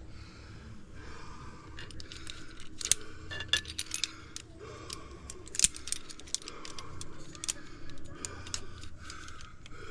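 Metal climbing hardware, carabiners and a belay device, clinking and rattling in many short, irregular clicks as it is handled and checked.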